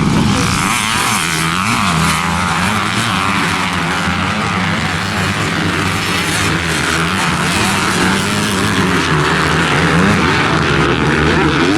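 Motocross dirt bike engines racing. The engine note climbs and drops again and again as the throttle is worked, over a steady rushing noise.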